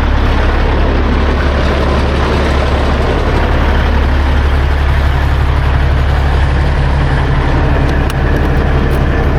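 Heavy diesel engine running steadily at constant speed, a deep, even drone with no change in pitch.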